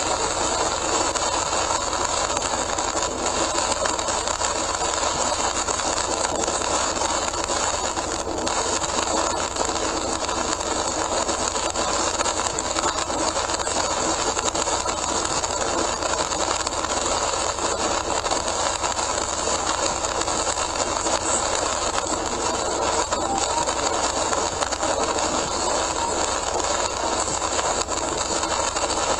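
Steady rushing noise of a car driving on a rain-soaked expressway, heard from inside the cabin: tyres on the wet road surface and rain on the car blending into one even hiss.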